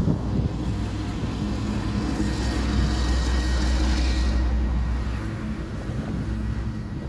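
DB Class 232 'Ludmilla' diesel locomotive's engine running under load with a deep, steady drone while hauling a long, heavy freight train. It swells to its loudest near the middle, with a rushing noise that rises and fades around the same time.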